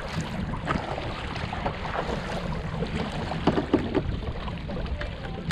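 Wind buffeting the microphone over water moving around a kayak, with a few short knocks about three and a half seconds in.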